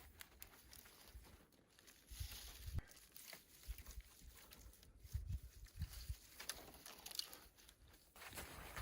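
Faint crunching, rustling and soft irregular thumps of someone moving about in snow and handling fir boughs.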